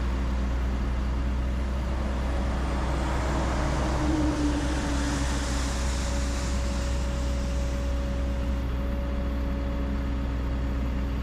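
Excavator diesel engine running steadily with a deep low hum, with a swell of hiss and a brief higher tone about four seconds in as the machine works.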